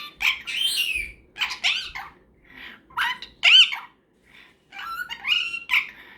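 Superb parrot chattering in a string of short squawky calls whose pitch rises and falls, coming in about six bursts with brief gaps between them.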